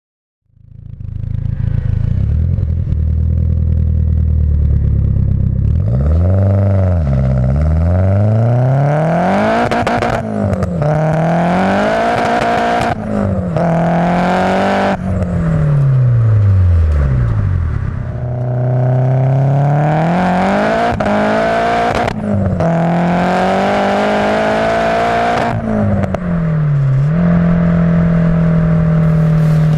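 Nissan S14 Silvia's SR20DET turbocharged four-cylinder engine heard through its exhaust, idling steadily and then free-revved repeatedly, each rev rising and falling back. A short idle comes partway through, and it ends on a steady held higher rev.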